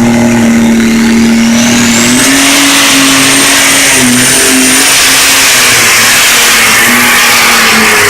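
Light super stock pulling tractor, an International 5288 with an alcohol-burning engine, running at full throttle down the track on a pull. The engine note steps up about two seconds in and then wavers under load. A high turbo whine climbs over the first two seconds and then holds.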